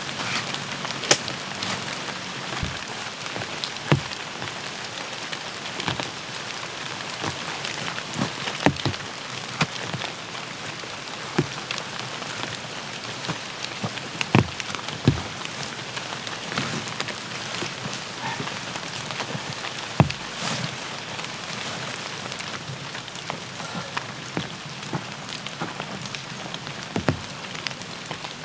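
Steady rain falling, with scattered louder drops striking a surface close by at irregular moments.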